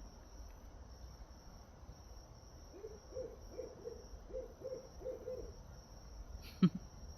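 Owl hooting: a quick run of about eight low hoots lasting under three seconds, over a steady chorus of crickets. A single sharp thump near the end is louder than the hoots.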